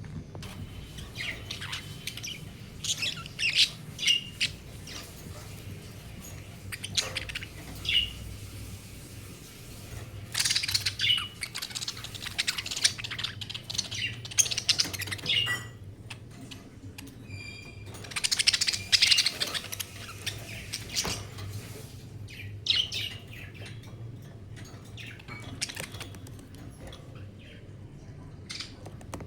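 Budgerigars chirping and chattering in bursts of a few seconds, with short pauses between the bursts.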